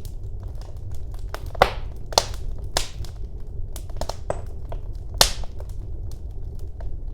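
Wood fire burning in a fireplace: a steady low rumble of flames under irregular crackles, with a few louder sharp pops, the loudest about five seconds in.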